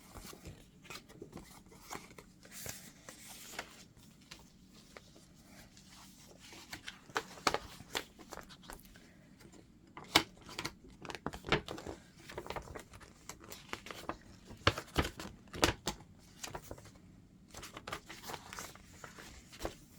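Pages of a chunky handmade junk journal being turned and handled: irregular paper rustling and crinkling with short page flicks and taps.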